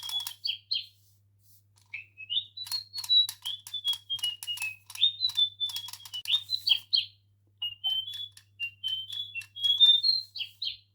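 Electronic toy bird chirping: fast strings of short, high tweets that slide up and down in pitch, mixed with sharp ticks, pausing briefly about a second in and again near the end.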